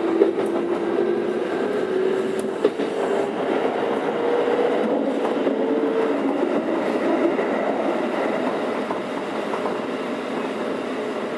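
Keikyu 600 series Toyo Denki VVVF inverter and traction motors whining with a slowly rising pitch as the train picks up speed, heard from inside the motor car. About six seconds in the whine fades, leaving steady wheel-on-rail rolling noise.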